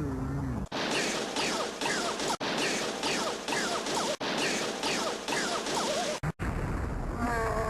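A cartoon crash-and-explosion sound effect, noisy and pulsing about twice a second with short falling whistles through it. It is edited into a choppy loop that cuts off abruptly three times. A steady buzzing hum comes in near the end.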